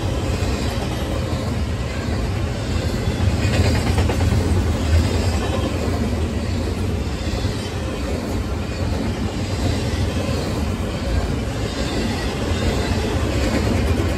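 Double-stack container freight train rolling past, its cars' steel wheels running on the rails in a steady low rumble that swells a little about four seconds in.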